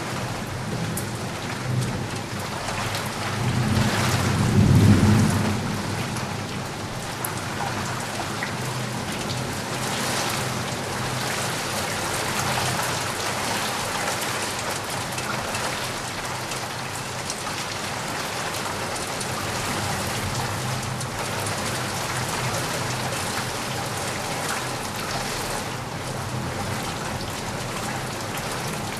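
Steady rain falling, with a low rumble of thunder that swells about three seconds in, peaks around five seconds and fades away.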